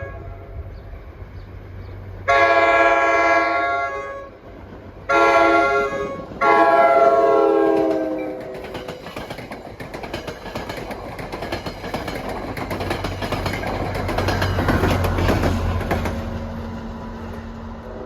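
NJ Transit train horn sounding blasts for a grade crossing, the last one dropping in pitch as the train reaches the crossing. The train then passes, with a rising rumble and the clatter of wheels over rail joints that swells and fades.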